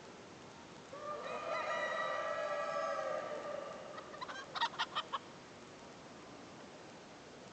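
A rooster crows once, a long call of about two seconds, followed a little later by four quick clucks.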